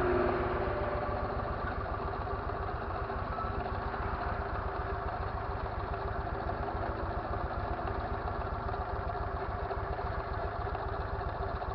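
Motorcycle engine running steadily, with a brief swell in level right at the start.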